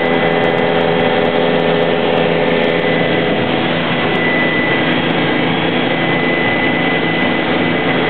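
Helicopter in flight, heard from inside the cabin: a loud, steady rush of turbine and rotor noise with a constant high whine and several steady lower hums.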